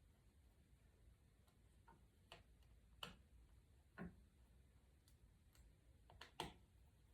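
Near silence broken by a handful of faint, sharp clicks and light taps, scattered irregularly, with two close together about six seconds in.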